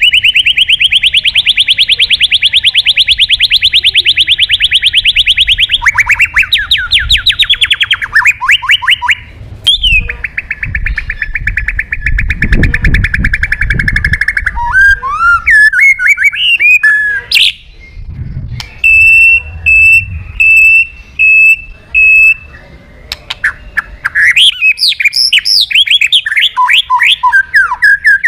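Male white-rumped shama singing loudly in full, vigorous song. It runs long rapid trills into whistled, gliding phrases, with a run of about six short even notes near the middle.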